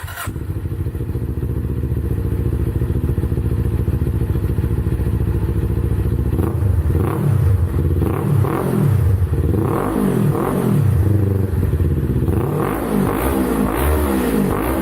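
Kawasaki motorcycle engine running through an SC-Project aftermarket exhaust, idling steadily, then revved in a series of quick throttle blips from about six seconds in.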